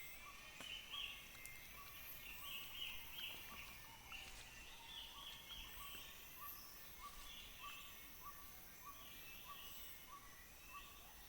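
Faint Bornean rainforest ambience: a bird repeats a short note about twice a second over clusters of higher chirping calls, with a steady high drone of insects underneath.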